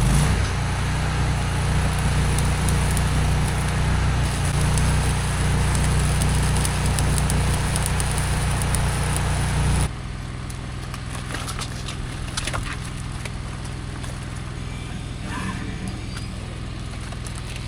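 Arc welding on rusty steel fence pipe: a crackling arc over a steady engine hum. About ten seconds in, the crackle and the hum drop off suddenly, leaving a quieter engine running with scattered clicks.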